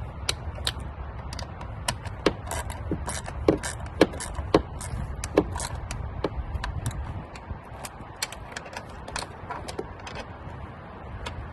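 Ratchet wrench clicking in irregular runs while tightening the throttle body's mounting bolts, the clicks loudest between about two and six seconds in. A low steady rumble sits underneath.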